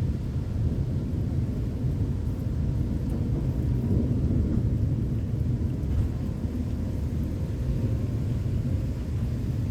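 Thunder from a lightning storm, a low rolling rumble that goes on steadily without sharp cracks.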